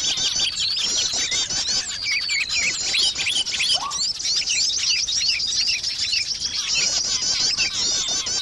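Dense, overlapping high chirps and twittering trills of several small songbirds, continuous throughout. It is a bird lure call (pikat) meant to draw small birds in.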